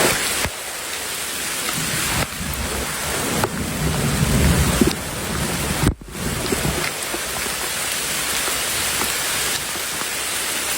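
Heavy rain falling steadily, with a low rumble of thunder about four to five seconds in. The sound drops out briefly about six seconds in.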